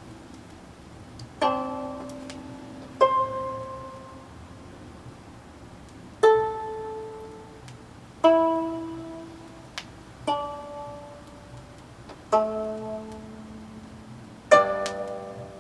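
Solo gayageum, the Korean twelve-string zither, playing slow, widely spaced plucked notes and small chords, about one every two seconds. Each pluck strikes sharply and rings away, some with a slight bend in pitch.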